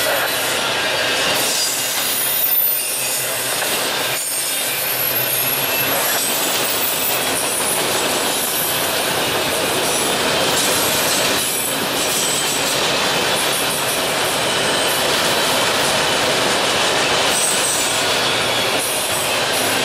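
Enclosed autorack freight cars rolling past: a steady rumble and rattle of wheels on rail and car bodies, with faint high wheel squeals now and then.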